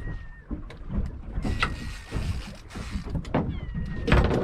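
Small fishing boat at sea: a steady low rumble of wind and water against the hull, broken by several knocks, the loudest near the end. Faint, thin, high-pitched whistles sound three times, each dropping slightly in pitch.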